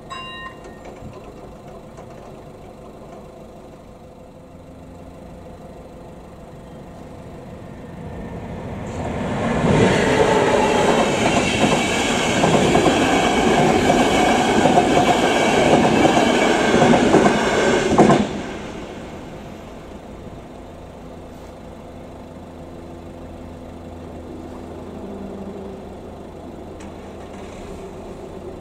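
Passenger train of coaches passing close by at speed, its wheels clattering over the rails. It builds up about eight seconds in, stays loud for about eight seconds and cuts off abruptly as the last coach passes.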